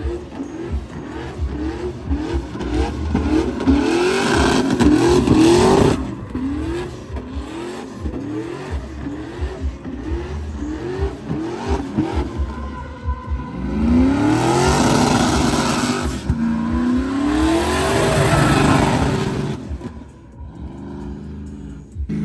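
Truck engine revved hard in quick repeated bursts, each rising in pitch, then held in two long high revs with a loud hiss of spinning tyres, typical of a burnout. The engine drops away about twenty seconds in.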